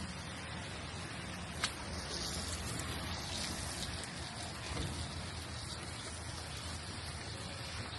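Steady rain falling on the street, an even hiss of drops, with one sharp tap about a second and a half in.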